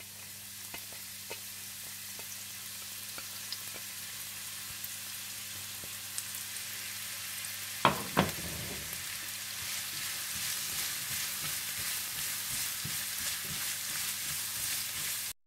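Julienned carrots frying in ghee in a nonstick frying pan, a steady sizzling hiss that slowly grows louder. Two sharp knocks a quarter of a second apart about eight seconds in; the sound cuts off suddenly just before the end.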